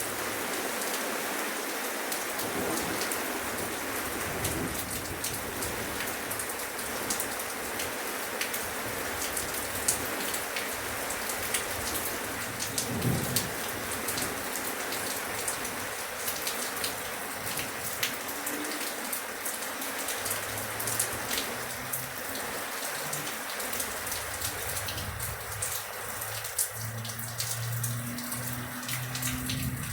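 Steady rain falling, with many individual drops ticking sharply on a hard surface. A faint low hum comes in about two-thirds of the way through.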